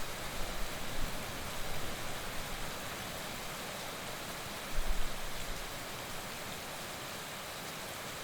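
Heavy rain falling steadily, an even hiss, with a brief low rumble about five seconds in.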